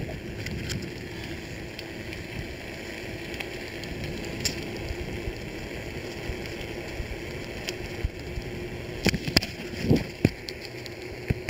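Steady wet hiss of rain and bicycle tyres on a wet track, with a cluster of sharp knocks and rattles about nine to ten seconds in.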